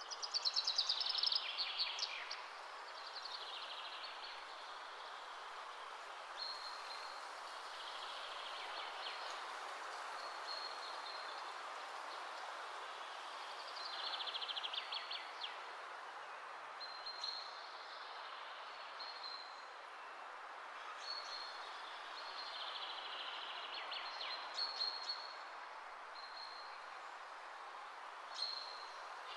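Birds chirping over a steady background hiss: repeated short high chirps and several louder trills, the loudest in the first two seconds and again about fourteen seconds in.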